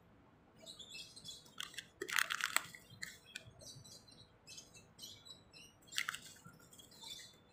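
Small birds chirping in short repeated notes throughout, with louder rustles about two seconds in and again near six seconds, likely from the plastic packet being handled.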